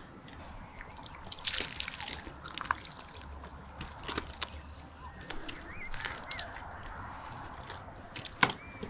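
Water trickling and sloshing, with scattered sharp clicks and knocks and a couple of short, high chirps.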